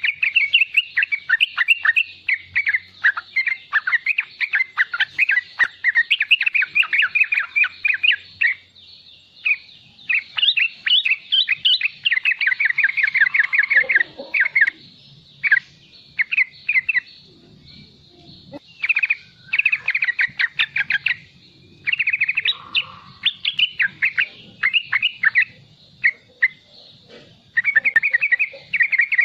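Young male yellow-vented bulbul (trucukan) giving its rapid riwik twitter: fast strings of short, high chirps in bursts of a few seconds, broken by brief pauses.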